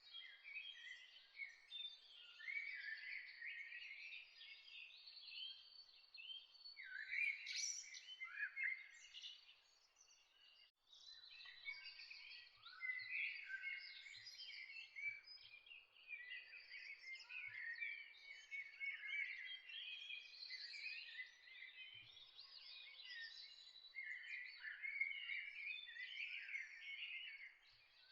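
A chorus of many songbirds chirping and singing at once, with overlapping short calls and trills, a brief lull about ten seconds in.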